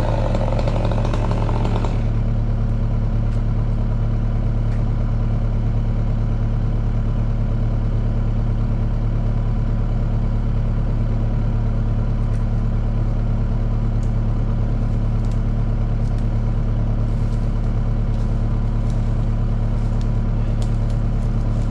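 An engine idling steadily with a low, even hum. A higher machine sound fades out about two seconds in, and faint ticks come later.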